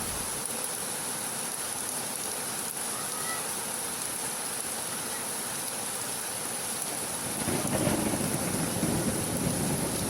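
Heavy rain falling steadily as an even hiss. A low rumble of thunder rises about seven and a half seconds in.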